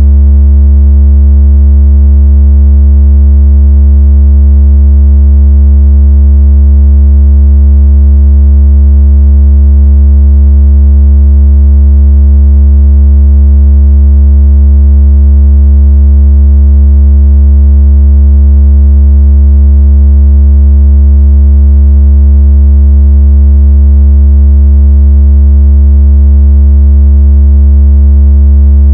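Very loud, steady low synthesized tone with fainter overtones, a speaker water-ejection and bass-vibration tone that holds unchanged throughout.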